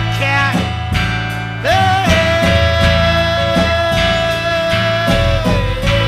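Band music with guitar, bass and drums. A lead note slides up and is held for about three and a half seconds, then drops to a lower note that wavers.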